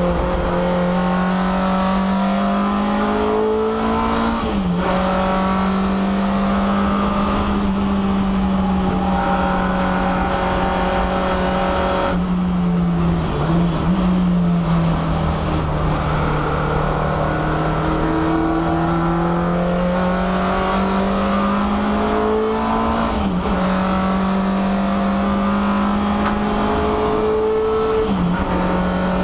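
Peugeot 306 race car's four-cylinder engine heard from inside the stripped cabin, pulling hard on track. The engine note climbs steadily and dips sharply about four times as it changes gear.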